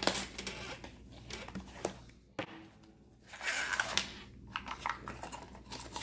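A small product box and its packaging being handled: irregular clicks and taps, with a longer rustle of packaging about three and a half seconds in.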